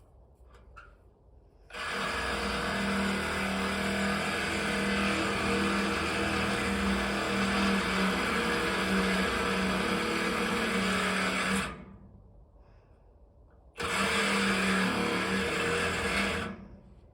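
Reciprocating saw (Sawzall) cutting through a bar of a metal bale feeder. It runs about ten seconds, stops abruptly, then starts again for about three seconds near the end.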